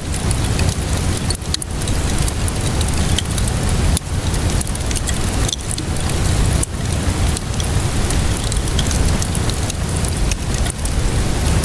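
Wood fire crackling with many small, irregular pops over steady rainfall that makes a constant hiss with a low rumble underneath.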